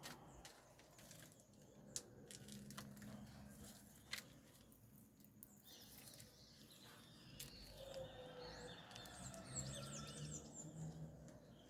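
Faint birds chirping and twittering, busier in the last few seconds, with two sharp clicks in the first half.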